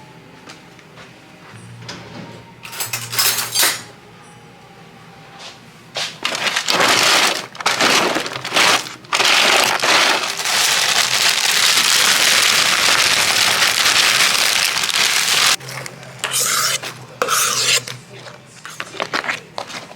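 Plastic packaging from a pack of vanilla wafers rustling and crinkling as it is handled and torn open. The crinkling turns loud and continuous about six seconds in and breaks into short bursts near the end, with light knocks of kitchenware among it.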